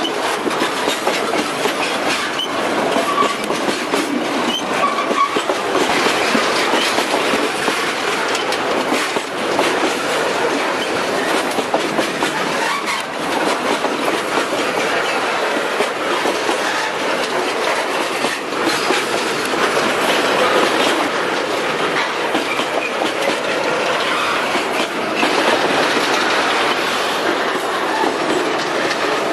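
Freight train of tank cars rolling past close by: steel wheels clattering steadily over the rail joints under a continuous rolling rumble of the cars.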